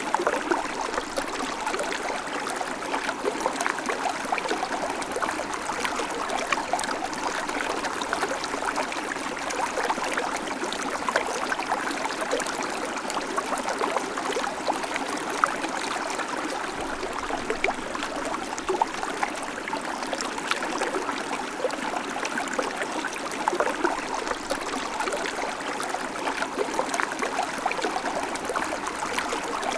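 Shallow creek babbling and trickling over stones: a steady run of water with many small splashes and gurgles.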